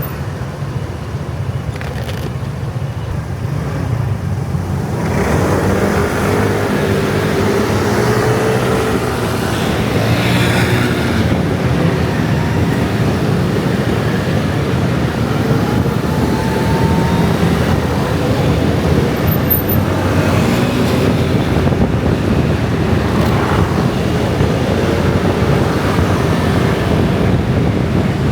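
Dense rush-hour traffic of scooters and motorbikes, a continuous mass of small engines running. It grows louder about five seconds in and stays loud.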